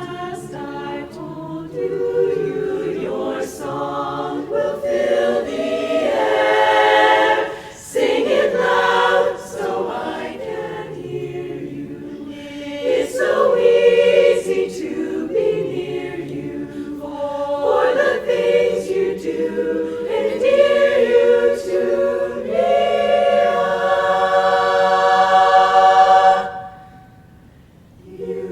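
A women's barbershop chorus singing a cappella in close harmony, phrase after phrase, with a long chord held near the end that cuts off before the singing starts again.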